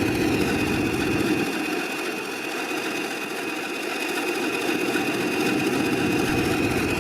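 A Class 20 diesel locomotive's English Electric 1000 b.h.p. engine running steadily at idle, with a steady high-pitched whistle over it. The low rumble thins out for a few seconds in the middle.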